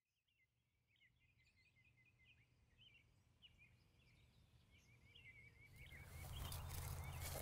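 Birds chirping and calling in short repeated notes over a faint low hum, fading in from silence. From about six seconds in, a rushing noise swells and grows much louder, with a few sharp ticks in it.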